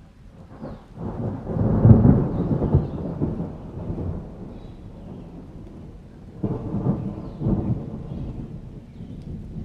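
Thunder rolling through a rainstorm: a long rumble swells about a second in, peaks and fades over a few seconds, then a second roll comes about six seconds in.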